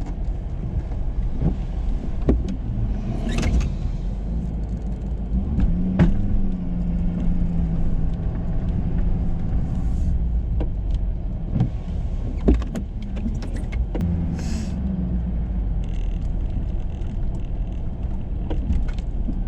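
Ford F-350 pickup truck running steadily with a low rumble, broken by a few sharp knocks and brief hissing bursts.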